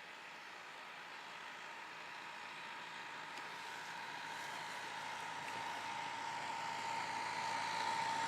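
Tractor engine approaching, growing steadily louder, with a steady whine over a rushing noise.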